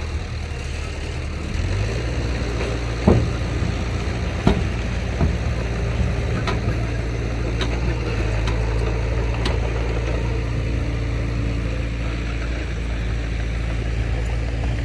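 Heavy diesel engine of a construction machine running steadily, with a few sharp knocks about three and four and a half seconds in.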